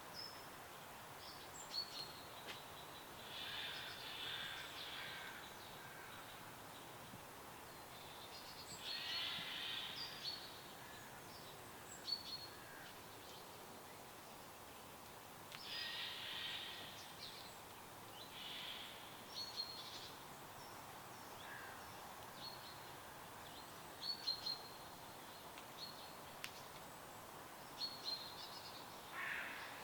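Wild birds singing: short high chirps every second or two and several longer song phrases, over a steady soft hiss.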